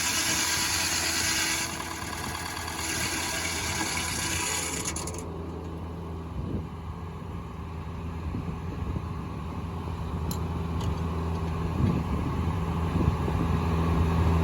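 Foley Belsaw circular sawmill cutting pine: a high hiss from the saw in the wood stops sharply about five seconds in. The power unit's engine then runs on with a steady low hum that grows louder toward the end.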